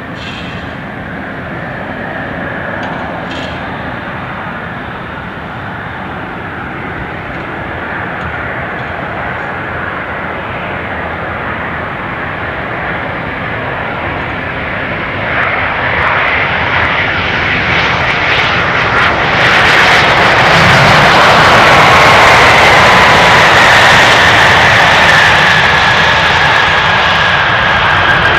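Airbus A350-900 jet airliner with Rolls-Royce Trent XWB turbofan engines flying past, its engine noise growing steadily louder for about twenty seconds and then holding loud. In the loud part a high whine slowly falls in pitch as the plane passes.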